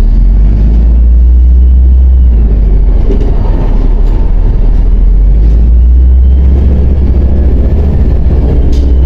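MAZ 105 city bus engine running under way, heard from inside the bus: a loud, deep, steady rumble that eases a little about three seconds in and then builds again, with a faint high whine rising and falling above it.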